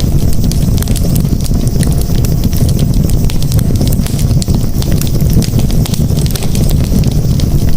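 Campfire burning, with many quick irregular crackles and pops over a steady low rumble.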